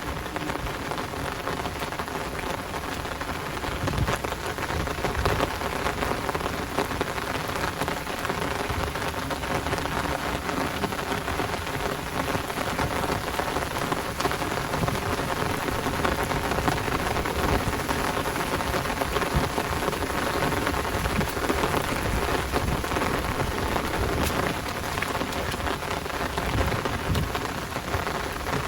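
Heavy downpour: a dense, steady hiss of rain with close drops pattering, and low rumbles of thunder coming and going.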